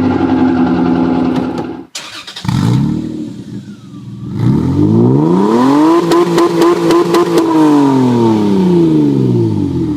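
Car exhaust revving: a steady high-rpm engine note cuts off abruptly, followed by a short blip and then a longer rev that climbs, holds with a few sharp cracks, and falls back to idle.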